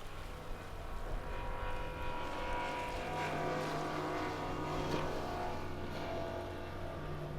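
Motorboat engines running: a steady low hum with a higher engine whine that swells about a second in and fades near the end, as a boat passes close by.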